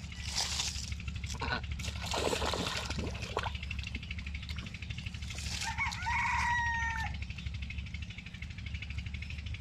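A rooster crowing once, about six seconds in, a call of about a second and a half that holds level at the end. It follows several short, harsh poultry calls over the first few seconds.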